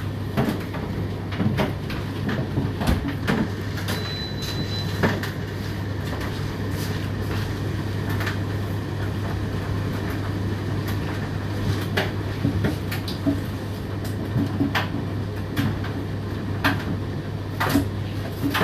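Indesit IDC8T3 condenser tumble dryer running mid-cycle: a steady low motor and drum hum, with irregular knocks and clicks as the laundry tumbles in the drum.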